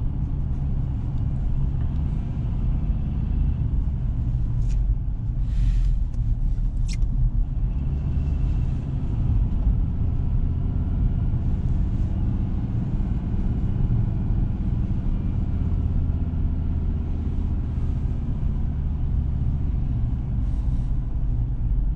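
Steady low rumble of a 2017 Ford Ranger pickup on the move, engine and road noise heard from inside the cab, with a few short clicks about five to seven seconds in.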